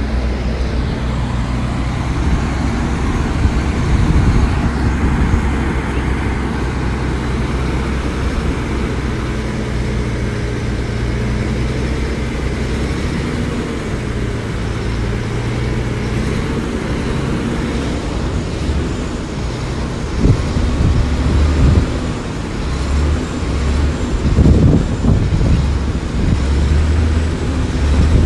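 Diesel engine of heavy earthmoving machinery running steadily with a low drone. From about twenty seconds in it gets louder and more uneven as the machine works harder.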